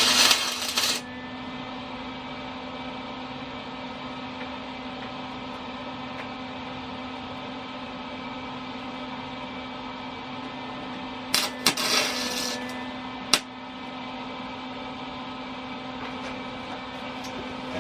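Steady electrical hum of welding shop equipment. A loud burst of noise ends about a second in, and a second burst just over a second long comes about eleven seconds in, which fits a MIG tack weld. A single sharp click follows soon after.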